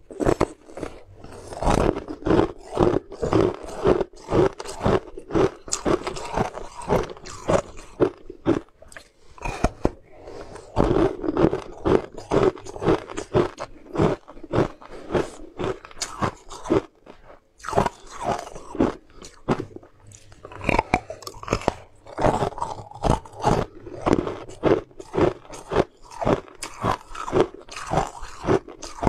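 Close-up biting and chewing of a translucent snowflake-shaped sweet: repeated crisp crunches, a few each second, with wet mouth sounds between them.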